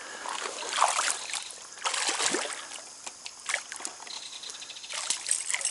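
Stream water splashing and sloshing in uneven bursts as a hooked brown trout thrashes and is brought to hand.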